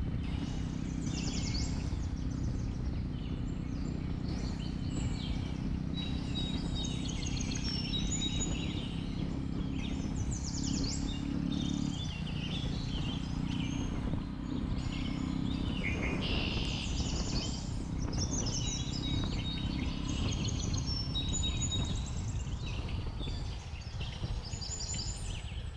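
Jawa 42 motorcycle's single-cylinder engine running steadily while the bike rolls downhill, with many forest birds chirping and calling over it.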